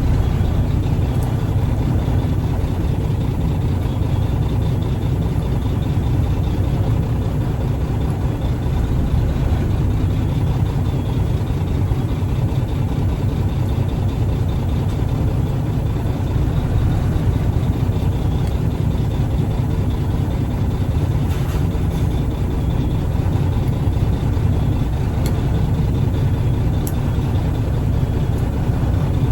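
Triaxle dump truck's diesel engine running steadily, a constant low rumble with no gear changes or other events standing out.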